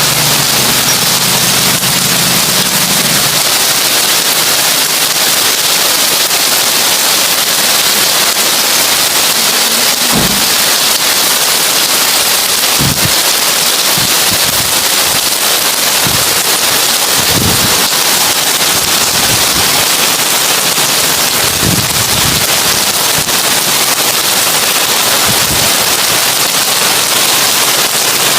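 Heavy rain falling on a tin roof: a dense, steady crackling hiss of drops. A few short, dull low knocks come a few seconds apart, and a low hum stops about three seconds in.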